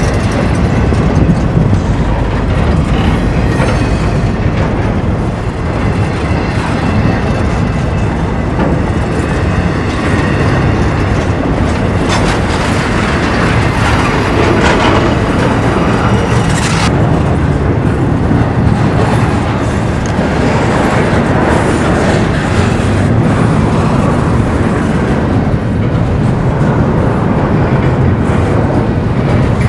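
A train rolling past, its cars' wheels clacking on the rails, loud and steady, with a high hiss for a few seconds about halfway through.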